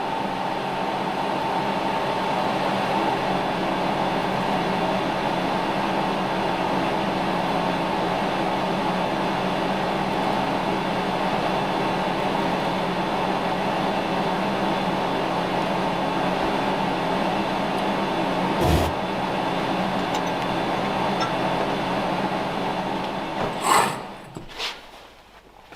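A machine tool running steadily with an even hum, cutting out with a click near the end; a few light metallic clinks follow.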